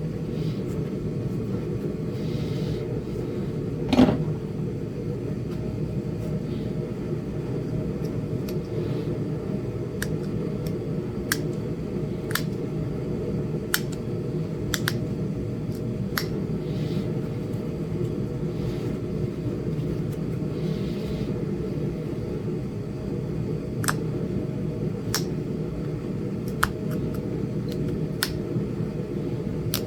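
Sharp, irregular clicks of small flakes snapping off a Flint Ridge chert point as notches are pressure-flaked into its base, the loudest about four seconds in. A steady low hum runs underneath.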